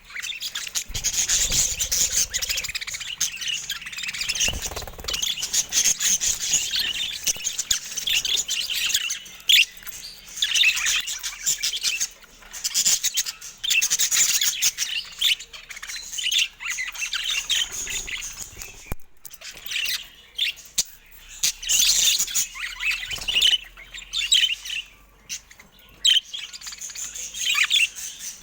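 Budgerigars chattering and warbling without a break, a dense stream of quick chirps and squawks, with a few dull low bumps near the start and around a fifth of the way through.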